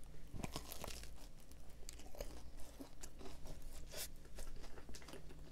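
Close-miked biting and chewing of a chocolate-coated doughnut topped with crunchy Loacker wafer pieces, with many small crunches spread through the chewing.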